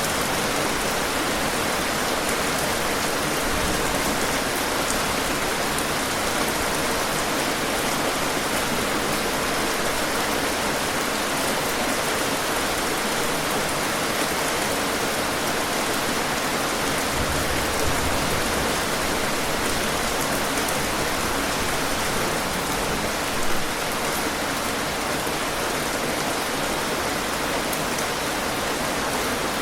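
Steady rain falling, a dense even hiss of raindrops on a surface, with one brief louder drop or splash about twenty-three seconds in.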